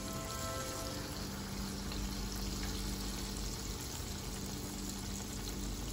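Batter-coated okra frying in hot oil: a steady sizzling, bubbling hiss, with a steady low hum beneath it.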